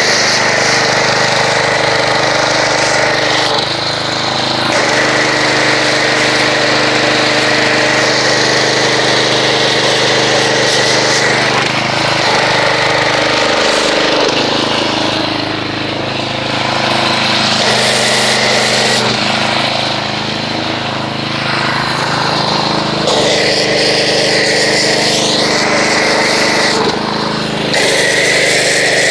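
Pressure washer running while it sprays soap foam through a foam cannon. The machine note and the spray hiss shift every few seconds.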